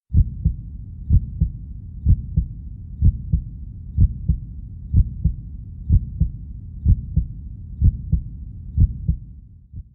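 Heartbeat sound effect: a steady lub-dub of paired low thumps, the first of each pair the stronger, at about one beat a second, stopping shortly before speech begins.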